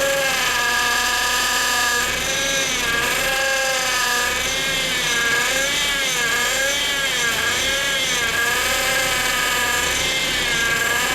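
Power steering pump of a Honda Odyssey (RB1) whining: a loud, high whine with several overtones, holding steady at first, then wavering up and down in pitch through the middle and steadying again near the end. The owner suspects a failing power steering pump, a common fault on these Hondas.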